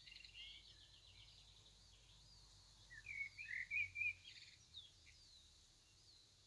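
Small birds chirping and twittering faintly, with quick trilling chirps at the start and a louder run of chirps about three to four seconds in.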